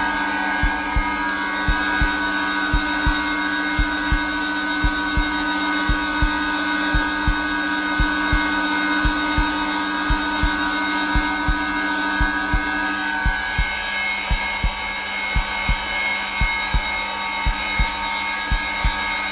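Zelmer vacuum cleaner motor running steadily at its lowest setting, layered with a heartbeat thumping in regular lub-dub pairs. About two-thirds of the way through, one of the motor's low tones drops out and its hum shifts slightly.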